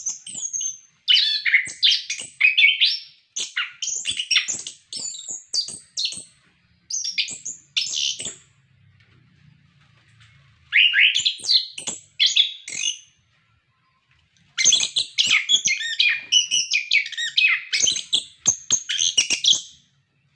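Orange-headed thrush singing a loud, rapid, varied song of high whistled and chattering phrases, in three bouts separated by pauses of a second or two.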